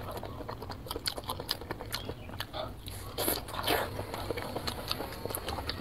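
Close-miked biting and chewing of a skewered green pepper, with crisp crunching and wet clicks, a little louder a bit past the middle.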